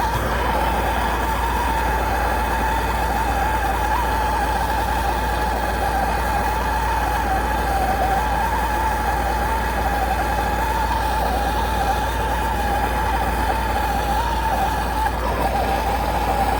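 Handheld torch flame burning steadily as it melts a chunk of ice off the outdoor heating unit's fan blade: a continuous hiss with a wavering whistle running through it.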